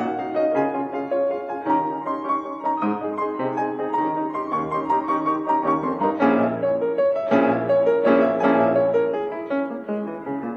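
Piano music: a flowing run of notes, with louder struck chords about six to nine seconds in.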